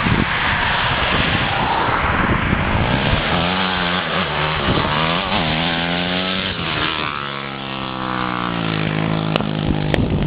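Dirt bike engine running, its pitch rising and falling repeatedly as the rider works the throttle. A loud rushing noise covers the first few seconds.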